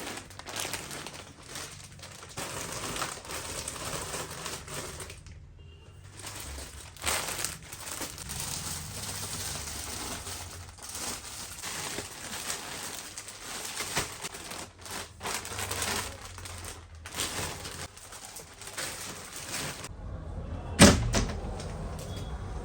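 Household handling noises: many small clicks, knocks and rustles over a steady hiss, with one loud thump about 21 seconds in.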